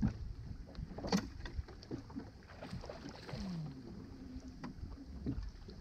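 Low background rumble on a fishing boat with scattered small clicks and knocks, a sharp click about a second in, and a brief falling tone a few seconds in.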